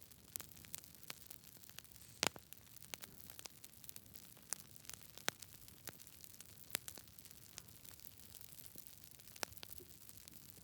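Wood fire burning in a fireplace, crackling: irregular sharp pops and snaps over a soft steady hiss, the loudest pop about two seconds in.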